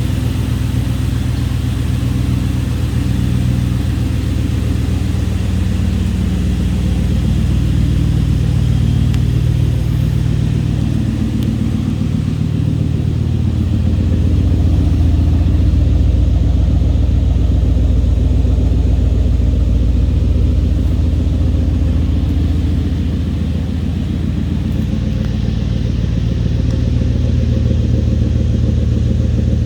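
2005 Toyota Tundra's 4.7-litre V8 engine running steadily at a low, even speed, getting a little louder for several seconds in the middle.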